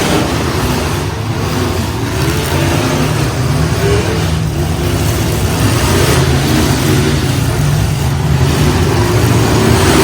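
Demolition derby truck engines running and revving, loud and continuous.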